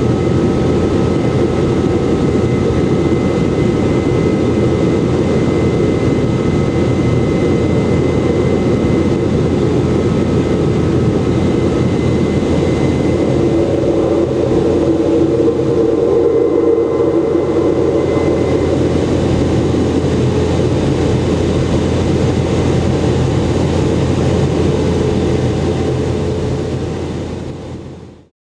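Boeing 717's rear-mounted Rolls-Royce BR715 turbofans heard from inside the cabin in flight: a steady, dense engine rumble with a thin high whine. It fades out near the end.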